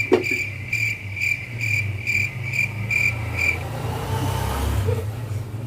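Cricket chirping, a high rhythmic trill pulsing about twice a second, that starts abruptly and cuts off suddenly a little past halfway, over a low steady hum.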